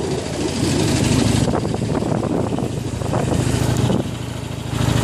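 Harley-Davidson Iron 883's air-cooled V-twin engine running under way at low speed. It grows louder about a second in and drops off briefly near the end before picking up again.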